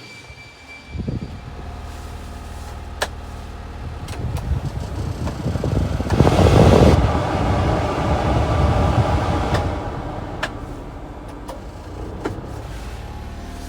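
Small three-cylinder engine of a 1993 Honda Acty truck running. It comes up about a second in, swells to a loud peak around six seconds in, and then settles back to a steady run.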